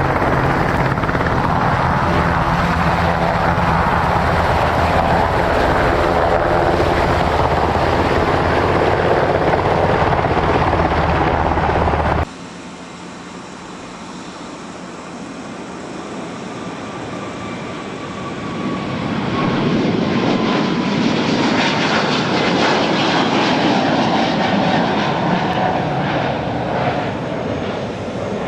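Black Hawk helicopter flying, its rotor and turbine noise loud and steady. About twelve seconds in it cuts abruptly to a jet airliner's engines, which build up and then hold, with a whine that slowly falls in pitch as the plane passes.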